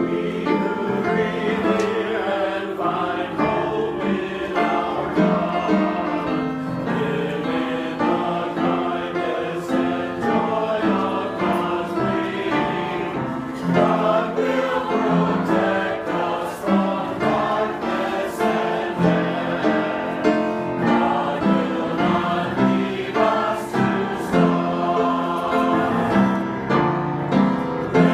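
Church choir singing a gospel hymn, many voices in harmony with sustained notes.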